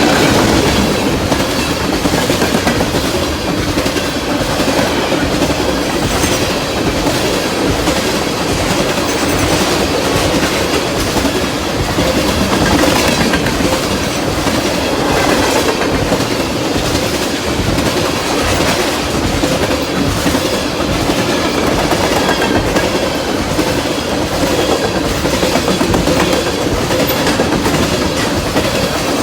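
Freight train of railroad tank cars rolling steadily past at track side, steel wheels clicking over the rail joints in a repeating rhythm.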